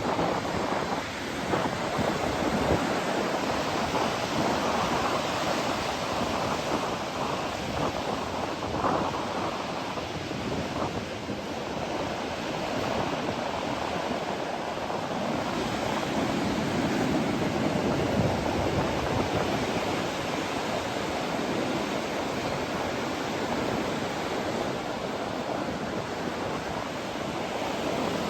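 Ocean surf washing on a beach, a continuous rush that swells and eases, with wind buffeting the microphone.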